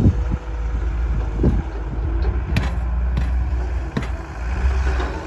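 Diesel engine of heavy machinery running steadily with a low rumble, with a few sharp knocks over it.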